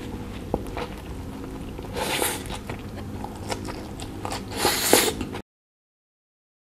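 Close-miked biting and chewing of a burger with shredded cabbage and sauce, with louder bursts of chewing about two seconds in and again around five seconds. The sound cuts off to dead silence for the last second or so.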